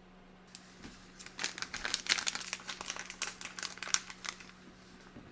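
Packaging crinkling as it is handled: a quick, dense run of crackles starting about a second in and lasting about three seconds.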